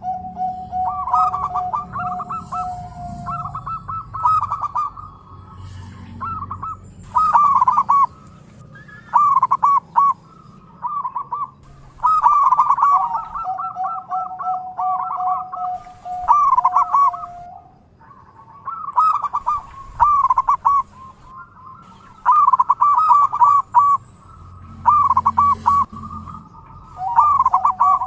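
Zebra doves (perkutut) cooing in repeated phrases of rapid staccato notes, with long level notes held beneath some of the phrases.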